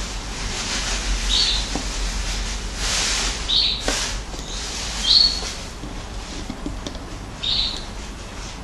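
A bird chirping: short, high chirps, about one every two seconds, four in all, over a faint steady low hum.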